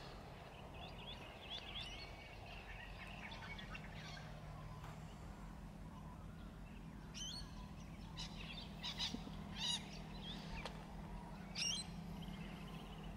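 Wild birds calling: scattered short chirps and whistles, with a few louder warbling calls in the second half, over a low steady hum.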